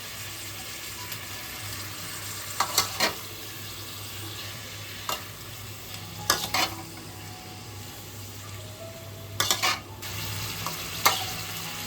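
Boneless chicken and spice paste sizzling in mustard oil in a karahi while being stirred, with a steady hiss throughout. A spatula knocks and scrapes against the pan about five times, every couple of seconds, louder than the sizzle.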